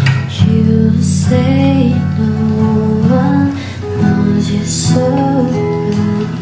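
Acoustic guitar strummed and plucked as song accompaniment, with a sung melody line over it.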